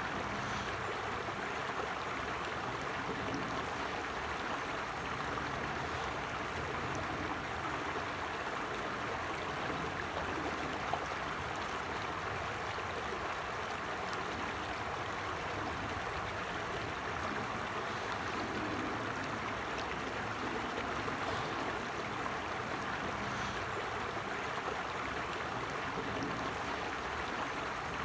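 Creek flowing steadily: an even, unbroken rush of running water.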